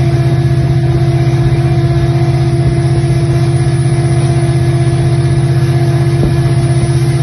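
Diesel locomotive engine running steadily at a constant speed, with a fast, even low pulse and a steady hum above it.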